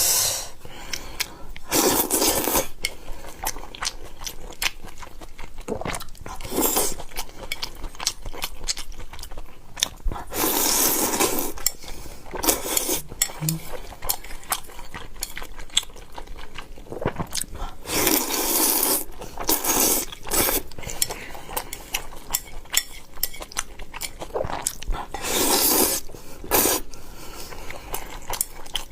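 Close-up eating sounds: chewing and biting, with chopsticks or cutlery clicking against a bowl. About six louder noisy stretches of a second or so each stand out over the clicks.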